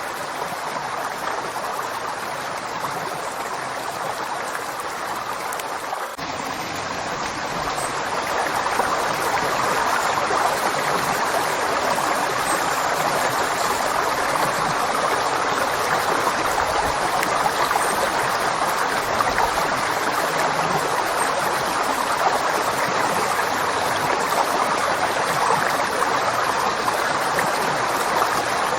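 Flowing river: a steady rush of water that grows slightly louder about seven seconds in.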